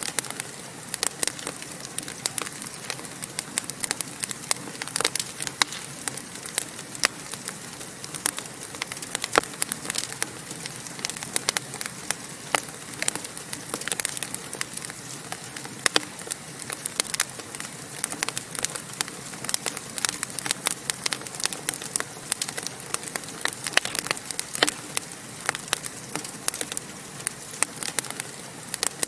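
Wood fire in a fireplace crackling, with many irregular sharp pops and snaps over a steady soft hiss of burning.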